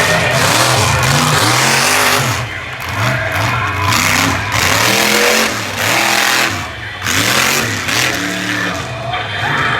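Monster truck engine revving hard, its pitch climbing and dropping again and again as the throttle is blipped and released.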